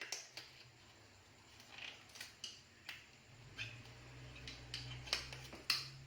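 Scattered light clicks and clinks of small parts and tools being handled, over a faint low hum that swells in the second half.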